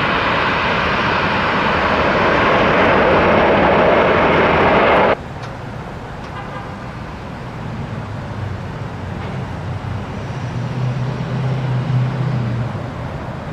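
Airliner jet engine noise, loud and steady, cutting off suddenly about five seconds in. It is followed by a quieter low rumble with a low hum that grows louder toward the end.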